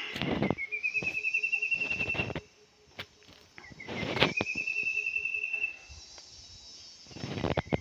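A forest bird repeating a fast pulsed trill, each phrase about two seconds long and rising slightly in pitch, three times about every three and a half seconds. Short bursts of rustling come in between.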